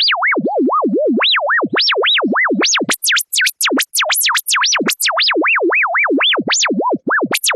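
A single pure electronic tone from an online tone generator sweeping rapidly up and down in pitch, several swoops a second, from a low hum up to a piercing high whistle; the swoops climb higher about halfway through.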